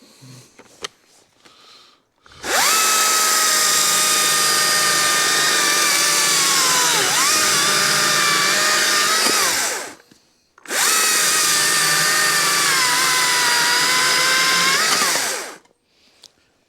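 Stihl MSA 220 battery-powered chainsaw with a new Oregon PowerSharp chain cutting through a log: a high electric motor whine whose pitch dips now and then as the chain bites. It runs twice, for about seven seconds and then about five, with a brief stop in between.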